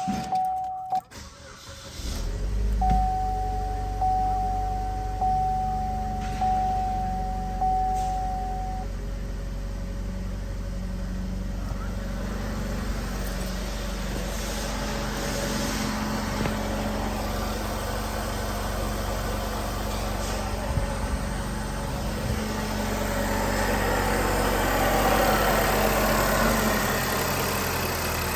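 2011 Buick Regal's 2.0-litre four-cylinder engine cranks and starts about two seconds in, then idles steadily. A dashboard warning chime beeps repeatedly, about once a second, over the first several seconds.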